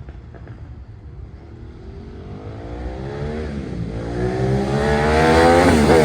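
Motorcycle accelerating hard and coming closer, its engine pitch climbing through the gears with a brief drop at each of two upshifts, getting louder until it is loudest near the end.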